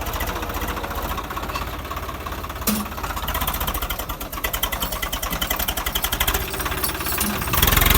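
Tractor diesel engine running with a steady, rapid knocking pulse, with a sharp click a little under three seconds in, and growing louder shortly before the end.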